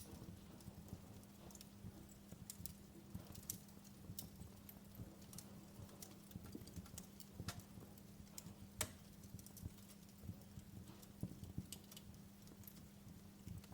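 Wood fire crackling in a fireplace: soft, irregular pops and snaps, with one sharper pop about two-thirds of the way through.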